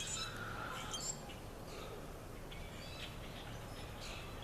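Faint, scattered bird chirps over a steady low background: a few short calls near the start, again around three seconds in, and near the end.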